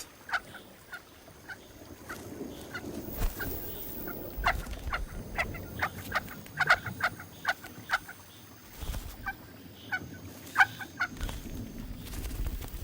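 Nestling birds calling with many short, high chirps in quick irregular runs, typical of begging for food.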